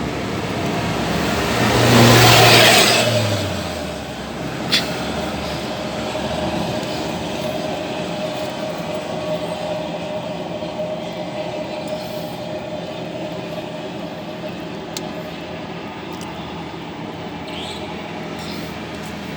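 Traffic noise with a steady engine hum; a vehicle swells past about two seconds in and fades by four. A single sharp click follows about a second later.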